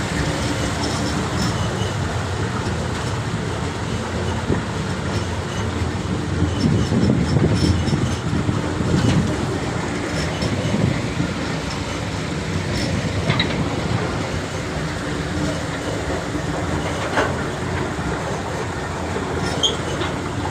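Train running on the rails, a steady low rumble with scattered clicks and brief high squeals.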